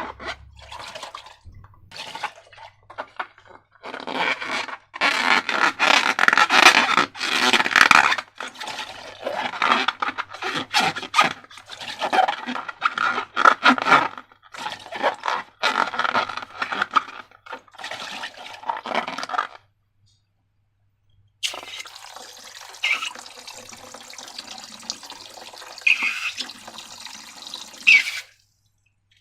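Wet squelching and sloshing of slime being worked by hand, in irregular bursts. After a brief silence past the middle, a steadier hissing wash of sound runs for several seconds with a few sharper squelches.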